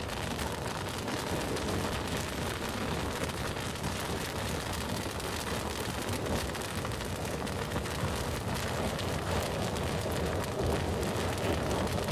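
Bonfire burning: a steady rush of flames with many small crackles and pops.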